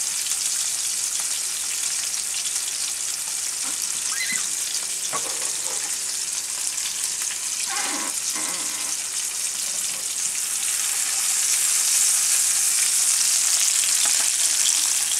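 Sockeye salmon fillets searing in hot oil in a frying pan: a steady sizzle that grows louder about eleven seconds in.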